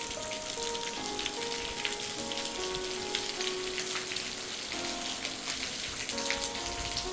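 Steady rain falling, a dense patter of drops. Soft music with slow held notes plays underneath.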